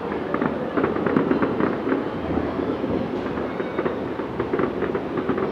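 Fireworks crackling in a continuous rumbling din, with many quick sharp pops and crackles layered over it.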